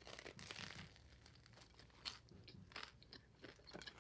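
Faint close-up chewing: a person eating, with soft crunches and wet mouth clicks at irregular intervals.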